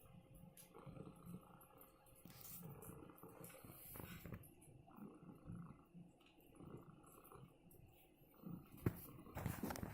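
Domestic cat purring faintly, with a single sharp click near the end.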